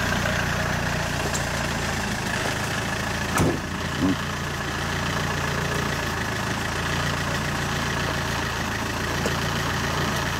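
Car engine idling steadily, with a car door slammed shut about three and a half seconds in and a lighter knock just after.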